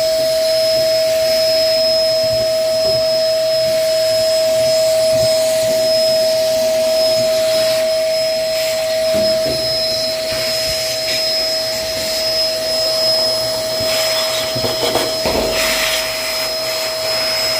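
Vacuum cleaner running steadily, its motor giving a constant whine over a rushing noise, with a few knocks and rattles near the end.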